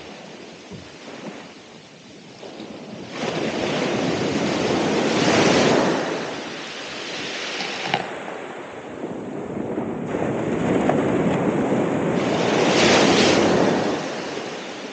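Ocean waves breaking on the shore: two big surges, one building from about three seconds in and another near the end, with quieter wash between them.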